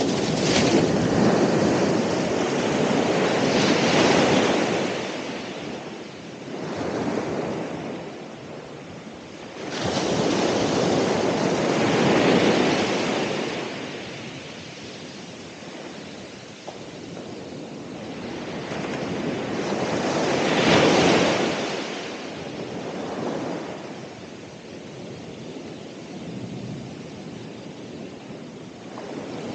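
Ocean waves breaking and washing on the shore, the surf swelling and fading in slow surges several seconds apart.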